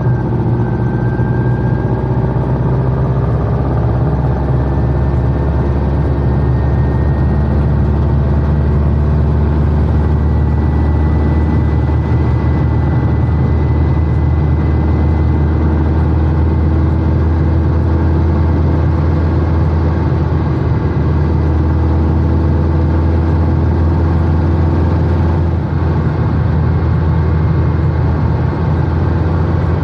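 Air-cooled VW Beetle (Type 1) flat-four engine running under way, heard from inside the cabin as a steady low drone. Its pitch rises slowly over the first ten seconds or so as the car gathers speed.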